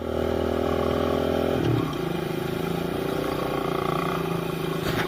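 Small pit bike engine running at a steady speed, then dropping to a lower steady idle about a second and a half in.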